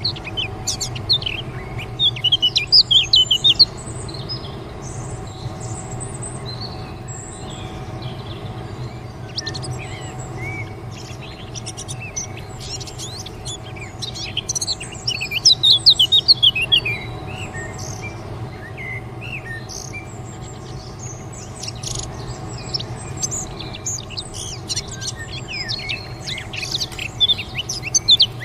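Birds chirping in quick, rapid-fire bursts, loudest about two seconds in and again around the middle, over a steady low hum.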